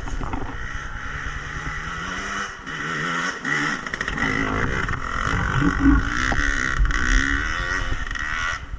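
Dirt bike engine revving, its pitch climbing over the first two seconds and then rising and falling repeatedly as the throttle is worked.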